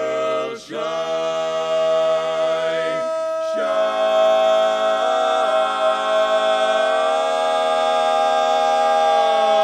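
Barbershop quartet of men's voices singing a cappella, holding long sustained chords. There is a short break about three seconds in, then a long held chord that swells slightly.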